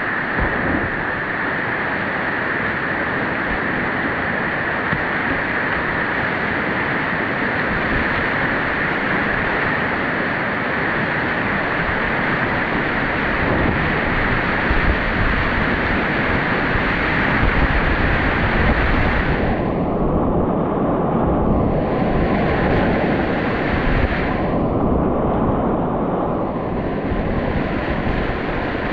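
Whitewater river rapids rushing around a kayak, a loud continuous wash of water noise. In the last third the hiss thins and swells back a few times.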